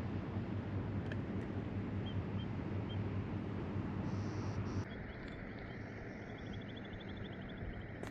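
Steady rush of the Red Deer River swollen with floodwater, with a low rumble; the sound drops abruptly about five seconds in. A few faint bird chirps come over it, and a short rapid trill near the end.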